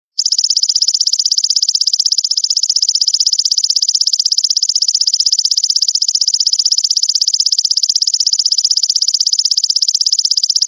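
Belalang mas (a grasshopper-type insect) calling: a continuous, high-pitched, rapidly pulsed buzzing trill, broken off briefly right at the start.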